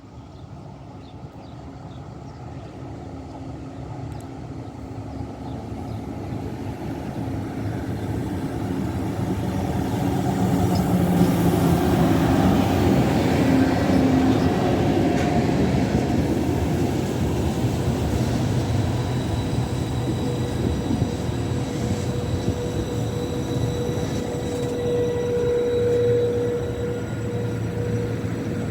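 A train approaching and running through a railway station, growing steadily louder over about ten seconds and then continuing loud and steady, with thin steady whining tones from the wheels or traction in the latter part.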